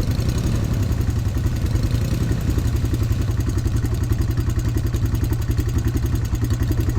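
ATV engine running steadily at low revs, a rapid even pulse with no revving up or down.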